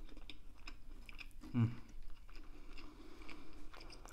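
A person chewing and biting food close to the microphone, with wet mouth clicks throughout. About a second and a half in there is a short hummed "mm".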